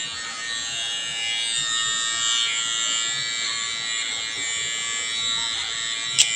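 Electric hair trimmer buzzing steadily as it cuts hair, with one sharp click near the end.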